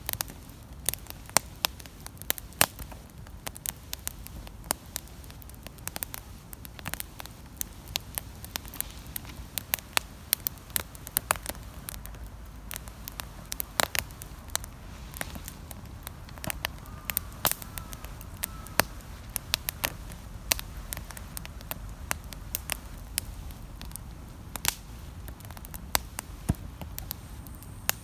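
Wood campfire crackling, with frequent irregular sharp pops and snaps over a low steady noise from the fire.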